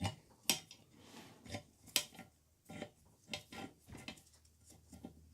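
Metal parts of a small drill press clinking and knocking irregularly as it is taken apart and its table is worked off, with two sharper knocks about half a second and two seconds in.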